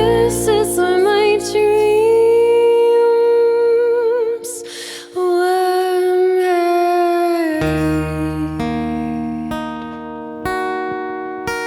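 A live band ends a song. A voice holds long wordless notes with vibrato over sustained guitar chords. Then the band strikes a few final chords, about a second apart, which ring out and fade.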